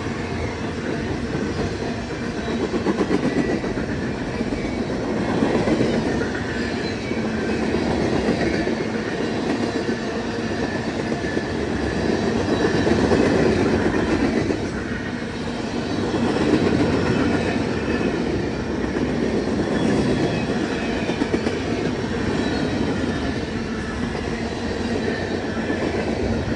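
Freight cars of a passing CSX manifest train rolling by, wheels clattering on the rails in a steady rumble that swells and eases every few seconds.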